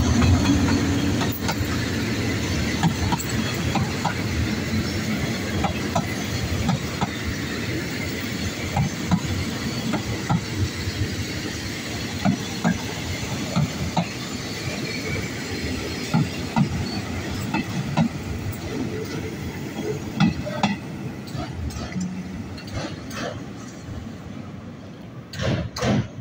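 Diesel passenger train's coaches rolling past close by, the wheels clacking over rail joints in an uneven run of clicks. The sound gradually fades, with a last cluster of clacks near the end as the final coach goes by.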